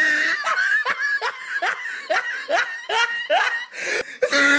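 A person laughing in a rapid run of short rising bursts, about three a second.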